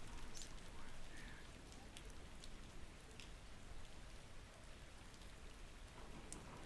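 Steady rain from a thunderstorm, faint, with a few light ticks scattered through it.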